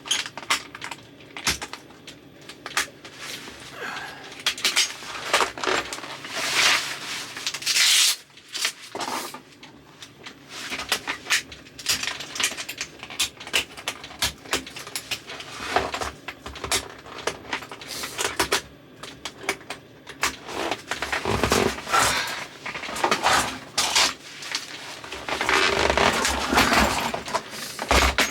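Ski boots being unbuckled and pulled off: irregular clicks and clacks of the buckles, with rustling and scraping of the boots and clothing.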